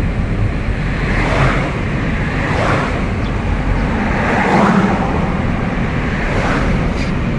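Steady road and wind noise of a moving car, a constant low rumble, heard from inside the car.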